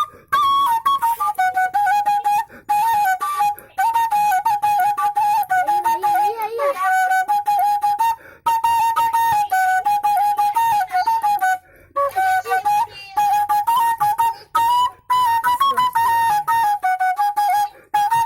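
Suling bamboo flute played solo: one melody line moving through a narrow range of notes, broken by short pauses every few seconds.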